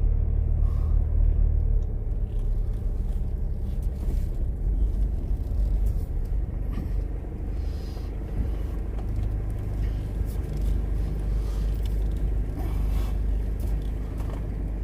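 Car interior rumble while driving: steady low engine and road noise heard from inside the cabin.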